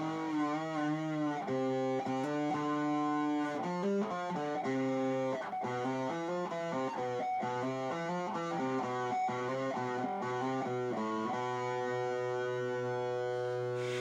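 Modded electric guitar being played: a held note with vibrato, then a run of picked notes and chords, ending on a long sustained chord that cuts off near the end.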